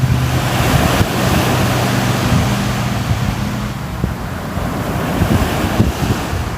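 Sea waves washing ashore in a steady surge that swells about a second in and slowly eases, with wind buffeting the microphone. A faint low hum sits under it and stops a little past halfway.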